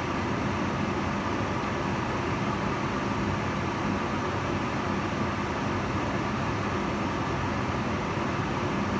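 Kitchen range hood fan running steadily: an even rushing of air with a low hum underneath.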